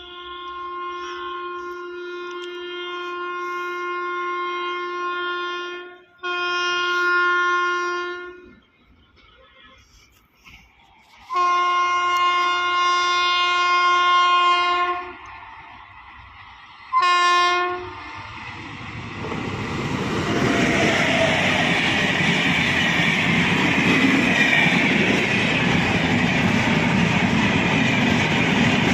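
Locomotive horn of an Indian Railways express sounding four blasts, three long and one short, as the train approaches. About two-thirds of the way in, the train passes at full speed, with the steady noise and clatter of wheels on track.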